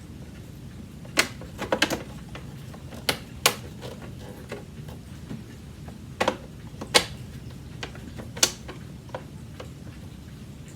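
Irregular sharp clicks and light knocks of hard plastic parts being handled on an old Hoover vacuum cleaner, some in quick clusters.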